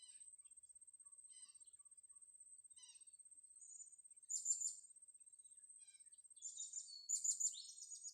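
Small bird chirping in quick high-pitched notes: faint chirps in the first three seconds, then two louder bursts about four seconds in and from about six and a half seconds to the end. A faint, steady, rapidly pulsing high whine runs beneath.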